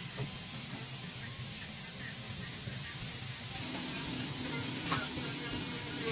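Car engine running with a steady hiss over a low hum. A faint pitched tone joins a little past halfway, and there is a light click near the end.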